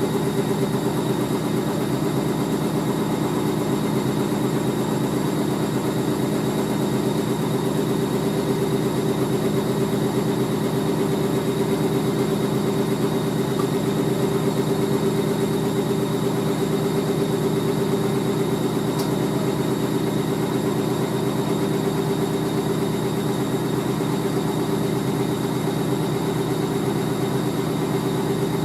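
Hoover A3060 Electronic 1100 washing machine spinning steadily at speed, its motor and drum giving a constant humming whine.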